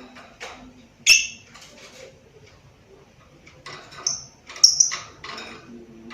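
Lovebird giving short, shrill chirps: one loud call about a second in, then a quick run of several calls near the end.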